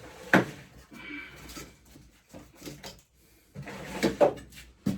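Workshop handling noise: a sharp knock about a third of a second in, then scattered rattles and a cluster of clunks near the end, as tools and mower parts are moved about.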